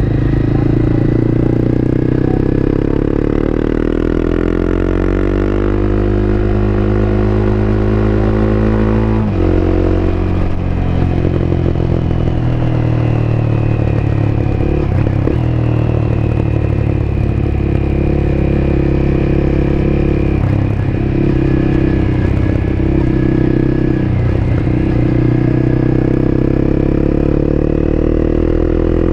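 Honda CBR250R's single-cylinder engine heard on board while riding: the revs climb steadily for about nine seconds, drop sharply, then hold fairly steady with a few brief dips and climb again near the end.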